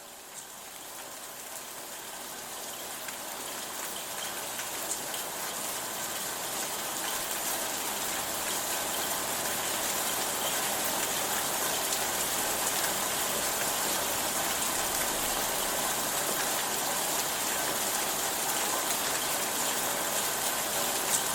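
Steady rainfall, a dense even hiss of rain on surfaces with scattered drips, fading in and growing louder over the first several seconds, then holding steady.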